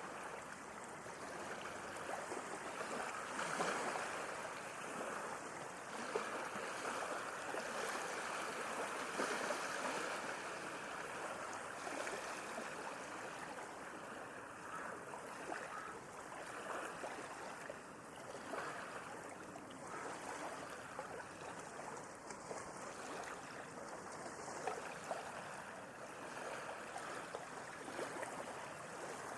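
Sea waves washing in a steady rush of water, swelling louder a few times, with small splashes scattered through it.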